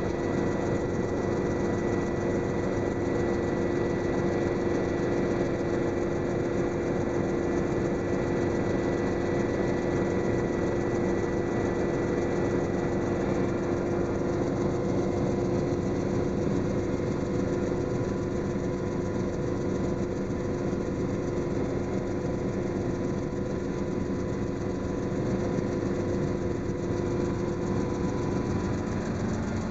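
Helicopter in flight: steady engine and rotor noise with a constant hum, and a faint high whine that fades about halfway through.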